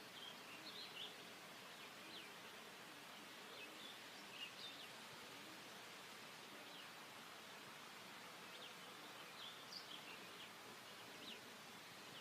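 Faint outdoor ambience: a steady low hiss with scattered short, high chirps, typical of small birds calling.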